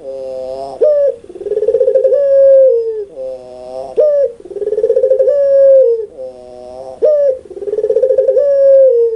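Puter pelung dove giving its loud, laughing coo over and over. Each phrase is a rapidly pulsing coo of about a second, then a falling note and a short sharp one, and it comes round about every three seconds, three times in all.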